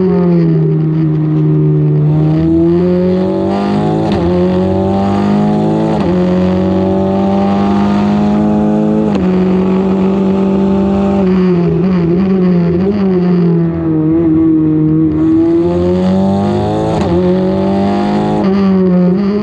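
Formula 4 race car engine running hard on track. Its pitch climbs and drops sharply twice in the first half as it upshifts, then falls with short blips as it downshifts under braking, and climbs again near the end.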